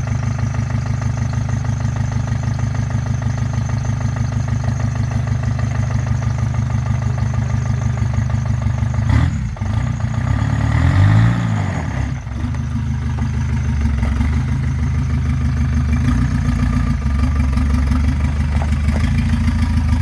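ZMZ-514 four-cylinder diesel engine idling steadily, with one brief rev about ten seconds in that rises and falls in pitch.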